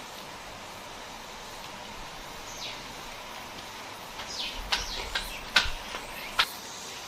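Tableware clinking: a handful of sharp clicks of utensils against bowls in the second half, after a few short falling chirps earlier on.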